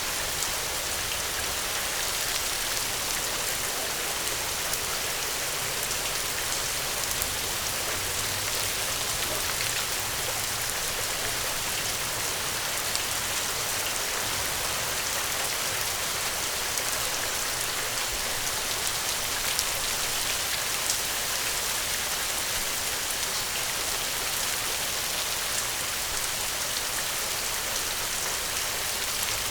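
Steady rain falling on a hard surface, a dense even hiss dotted with the small ticks of individual drops.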